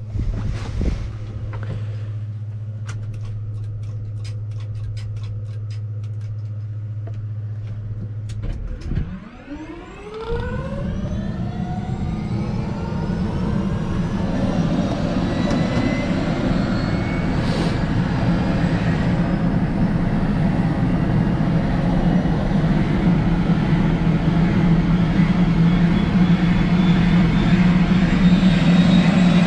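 Airbus AS350 B3 helicopter starting up: a steady low hum with scattered clicks, then about nine seconds in a rising whine as the turbine engine spools up. It builds into a steady, gradually louder turbine and rotor noise.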